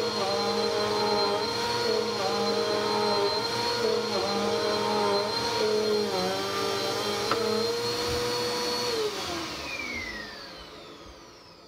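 Bissell vacuum cleaner running at a steady whine, its pitch dipping briefly now and then as it works. About nine seconds in it is switched off and the motor winds down, falling in pitch.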